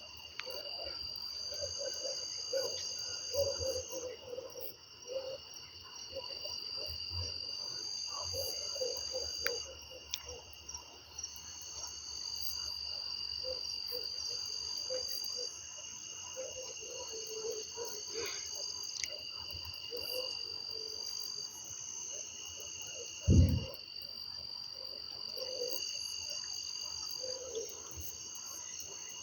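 Night chorus of crickets and frogs: several steady high-pitched cricket trills starting and stopping over each other, with frogs calling in short repeated notes. One short low thud about two thirds of the way through.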